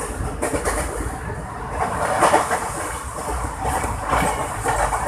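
Indian Railways passenger train running on the track: a steady low noise of wheels and coaches that swells and eases.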